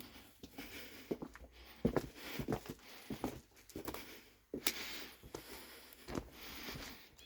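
Footsteps of a person walking, about a dozen uneven steps.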